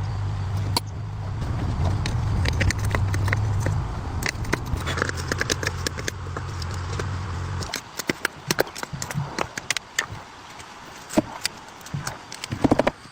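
Car engine running with a steady low hum that cuts off abruptly a little over halfway through, with sharp metal clicks and clinks of tool work throughout.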